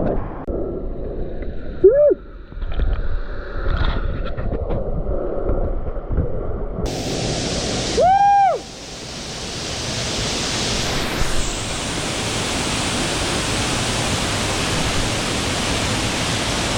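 Waterfall rushing as a steady, even roar, which comes in full and bright about seven seconds in after a muffled low rumble. Two short rising-and-falling tones, like a whoop or call, sound about two and eight seconds in.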